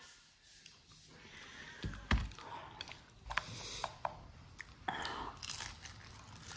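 A person chewing and biting into cooked chicken feet, with scattered small crunching clicks. One dull thump about two seconds in.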